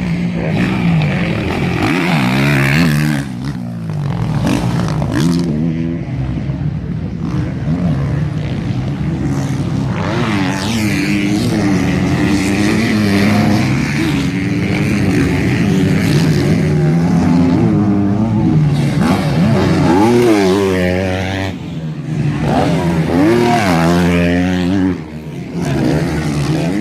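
Motocross bike engines running hard and revving, their pitch climbing and dropping over and over as the bikes accelerate and shift.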